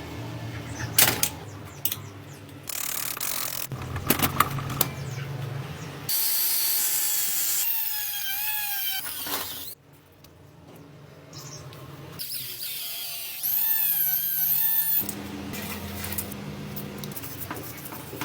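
Workshop power-tool sounds cut together: a power tool whining, its pitch wavering as it loads and unloads, in two spells in the middle, with sharp clicks and knocks of handled metal parts before it.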